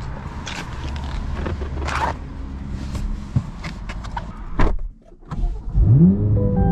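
Power window motor and clicks as the Corvette C8 Z06's door is worked, then about six seconds in its 5.5-litre flat-plane-crank LT6 V8 starts with a rising rev flare and settles to a steady idle.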